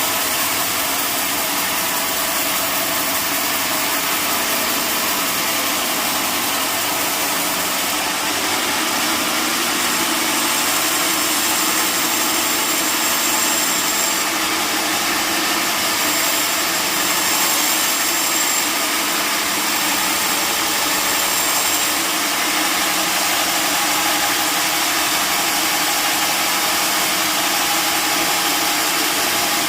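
Sawmill machinery running steadily: a continuous, even mechanical drone with no breaks or sudden knocks.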